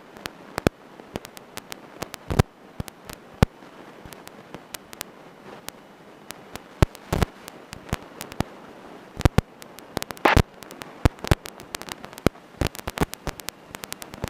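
Irregular static crackles and sharp clicks over a faint hiss on a light aircraft's headset intercom line, with no voices; the engine is barely heard through the intercom.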